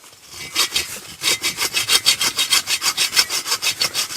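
Hand saw cutting through a wooden branch in quick, even back-and-forth strokes, starting about half a second in.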